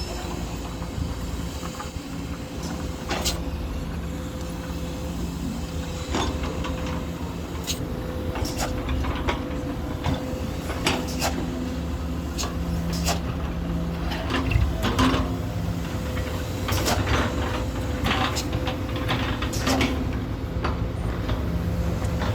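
Truck engine running steadily with a low drone, with frequent rattles and knocks throughout.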